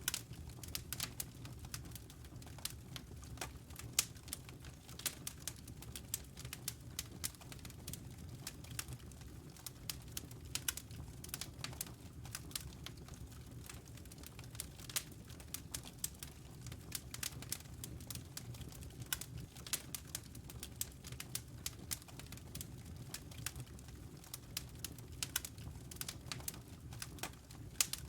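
Wood fire in a fireplace crackling, with many irregular sharp pops and snaps, several a second, over a steady low background.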